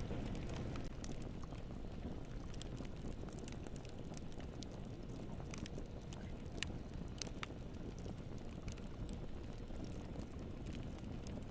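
Wood fire crackling in a fireplace: a steady low rumble of burning with frequent sharp pops and snaps, a couple of louder pops past the middle.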